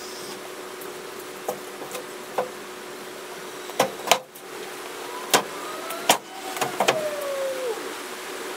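Sharp metallic knocks and clanks, about ten in all, from a steel bumper being set in place against a van's frame rails, over a steady hum. A squeal slides down in pitch near the end.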